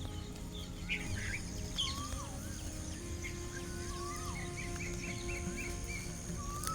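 Birds chirping and calling: quick repeated high notes and several downward-sliding calls, over a thin steady high tone.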